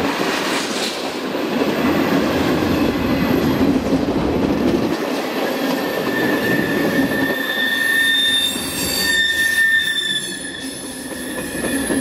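Freight train of covered hopper cars and boxcars rolling past close by, a continuous rumble and clatter of steel wheels on rail. From about halfway through, the wheels squeal in long, steady high tones.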